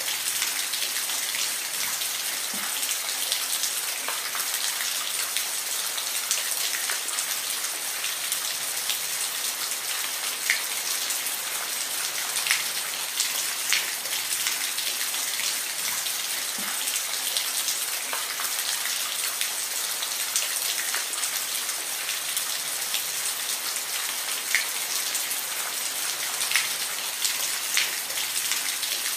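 Steady rain falling, an even hiss with individual drops striking a surface as scattered sharp taps.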